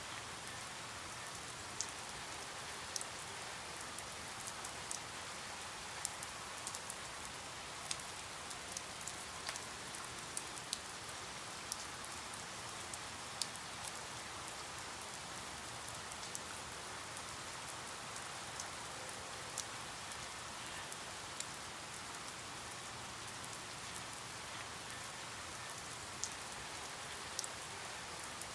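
Steady rainfall, an even hiss with individual drops striking a surface now and then as irregular sharp ticks.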